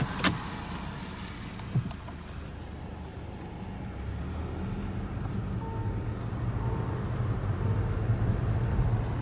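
Garbage truck engine running, growing louder from about four seconds in. A sharp knock comes near the start and a smaller one just under two seconds in.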